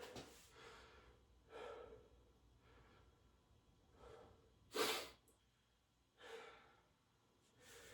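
A man's hard exhalations through a set of a weighted back exercise: four short puffs of breath a second or more apart, the loudest about five seconds in.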